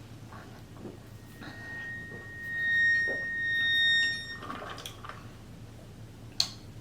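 A high, steady whistling tone lasting about three seconds, made by sucking hard on the straw of a large water bottle. A short click follows near the end.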